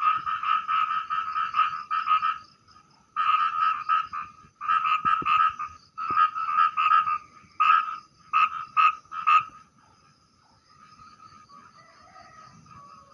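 A small frog calling loudly, a rasping "prak prak prak" in bouts of rapid pulses about a second long. Near the end the bouts shorten to single short calls, and they stop about ten seconds in.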